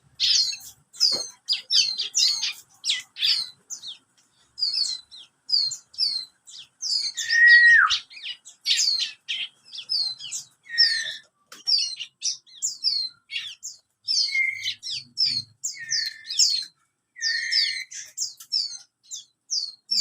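A month-old bar-winged prinia (ciblek kristal) sings a rapid, continuous series of short, high, downward-sliding chirps, about two to three a second. A few lower, longer notes are mixed in; the loudest comes about seven seconds in and slides down in pitch.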